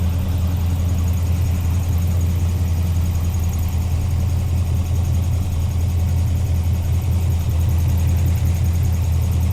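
7.0-litre (427 ci) LS V8 with individual throttle bodies idling steadily with a deep, even hum, running on freshly fitted CNC-ported cylinder heads while it warms up.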